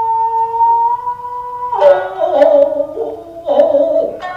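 Japanese traditional dance music: a long, drawn-out vocal line held on sustained notes, punctuated by sharp plucks of a shamisen-like string instrument, about four in the second half.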